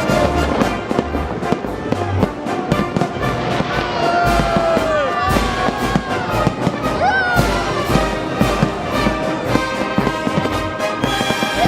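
Fireworks display: many bangs of bursting shells, irregular throughout, over loud orchestral music with brass.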